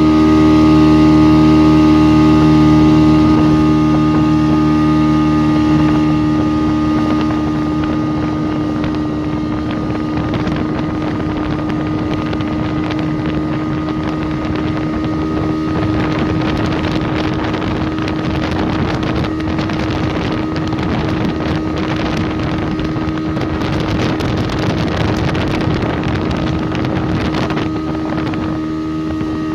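Motorboat engine running at a steady pitch, with wind buffeting the microphone and rushing water, the rush growing louder after the first several seconds.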